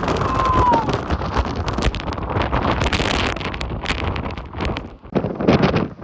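Hurricane-force wind buffeting the microphone: a loud, continuous rush full of sharp knocks and rattles, with a gust peaking about halfway through.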